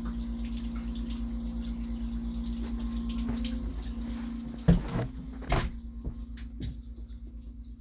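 FPT N67 six-cylinder marine diesel running steadily with its Twin Disc gearbox, a fast even pulsing beat under a steady hum and hiss. A couple of loud knocks come about four and a half and five and a half seconds in, after which the hiss falls away and the engine runs on more quietly.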